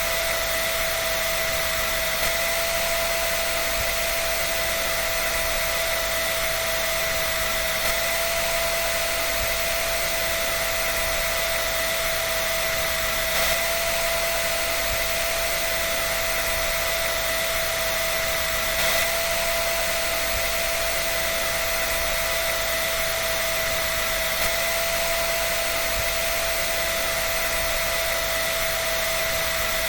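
Electric dryer running steadily: an even rushing hiss of air with a constant motor whine in it.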